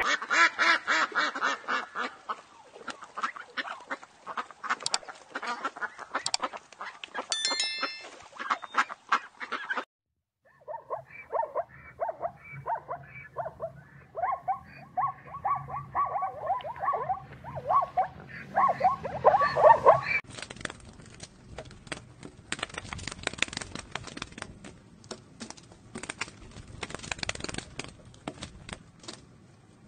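Domestic fowl calling in runs of short, repeated calls through the middle of the stretch. Before and after come long stretches of rapid clicking and tapping.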